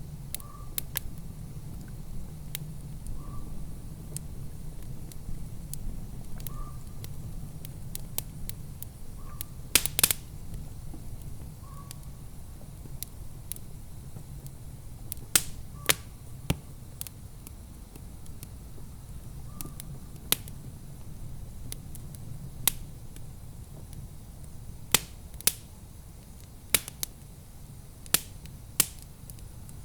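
Wood fire in a fireplace crackling, with sharp pops every few seconds over a steady low rumble.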